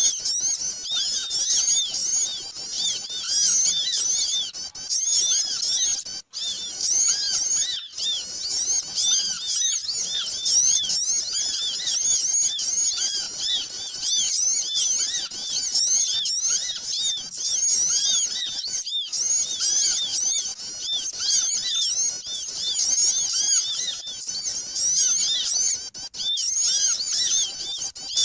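A noisy chorus of many small birds chirping at once in fast, overlapping high chirps, a bird-lure recording (suara pikat) for drawing small birds in. It runs on with a few brief dropouts.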